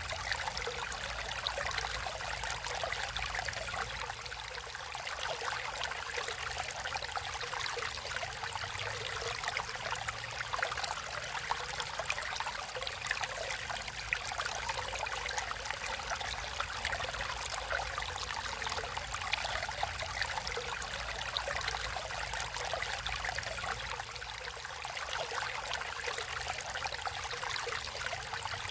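Water flowing and trickling steadily, like a stream running over rocks, a dense constant splashing and bubbling.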